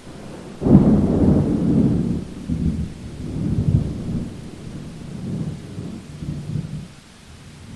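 Thunder over steady rain: a loud clap breaks in sharply just under a second in, then rumbles on in rolling waves for about six seconds before dying away near the end, leaving the steady hiss of the rain.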